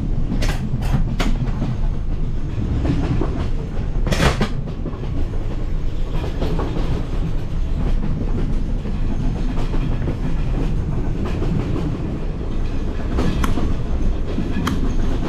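Railway carriage running, heard from inside: a steady low rumble of the wheels on the track with clickety-clack and a few sharp knocks and clatters, the loudest about four seconds in.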